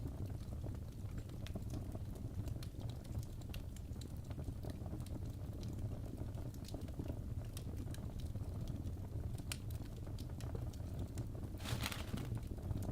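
Fireplace fire crackling: scattered small pops and snaps over a steady low rumble, with a brief louder hissing flare near the end.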